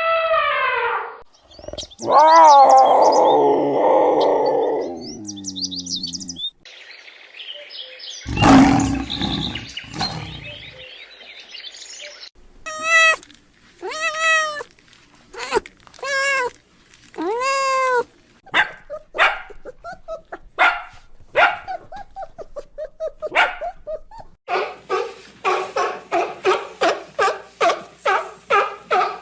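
A run of different animal calls, one clip after another: a long call at the start, a longer pitched call a couple of seconds in, a loud short burst, then a series of separate calls that rise and fall in pitch, and near the end a fast, even string of short calls.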